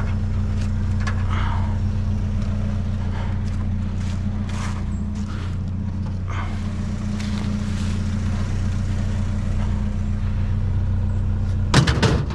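Truck engine running steadily with a low hum, with a short loud clatter near the end.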